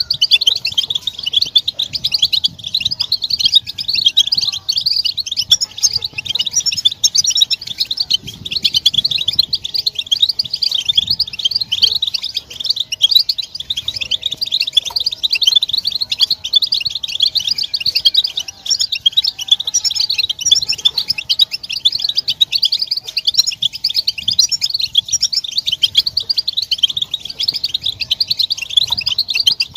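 A dense, continuous chorus of European goldfinches twittering: many rapid, overlapping high chirps and trills with no break. These are the excited group calls of goldfinches in breeding readiness, used as a lure to make males sing.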